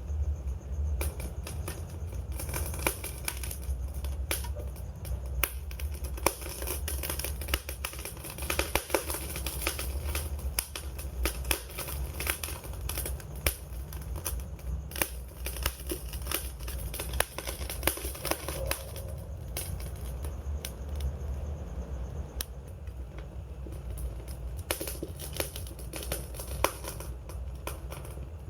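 Campfire burning, with dense irregular crackles and pops of burning wood over a steady low rumble of flame.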